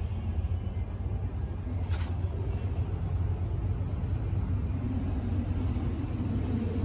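Coaster commuter train pulling out of the station: a steady low rumble, with a low engine note coming in about halfway and one sharp click about two seconds in.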